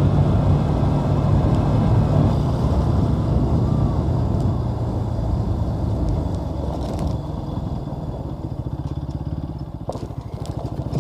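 Bajaj Pulsar NS200's single-cylinder engine running as the motorcycle is ridden, its note steady at first and easing off, quieter, over the second half.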